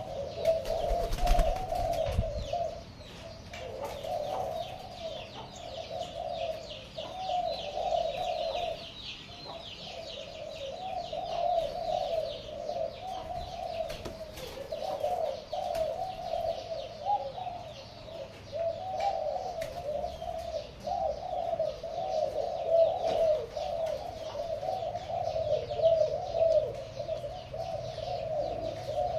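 Pigeons cooing without a break, several calls overlapping, with a rapid high chirping that is strongest in the first half.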